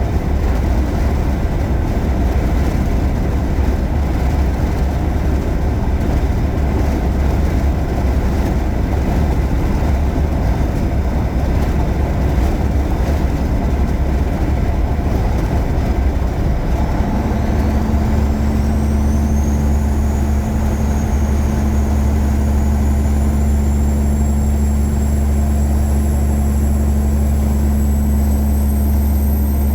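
Caterpillar 3406E inline-six diesel in a Freightliner Classic truck running steadily under way. About halfway through the sound settles into a steadier drone, and a thin high whine comes in and climbs slowly in pitch to the end.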